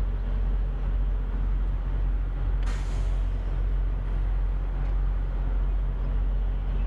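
Steady low drone of a semi-truck running, heard from inside the cab, with a short hiss about two and a half seconds in.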